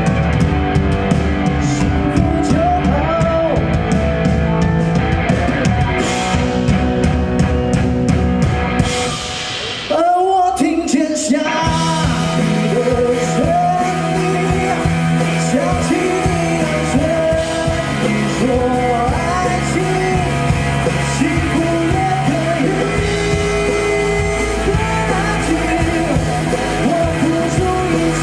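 Pop-rock medley sung by a vocalist over a band of drum kit, guitar and bass. About ten seconds in the drums and bass drop out briefly under the voice, then the full band comes back in.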